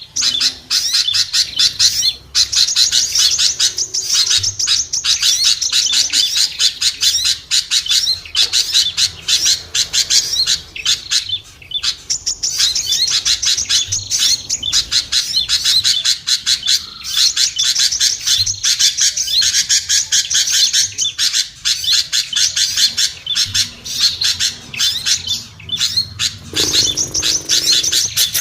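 Dense, rapid chirping and twittering of small songbirds, a recorded lure call for small birds, running almost without pause. A lower call joins near the end.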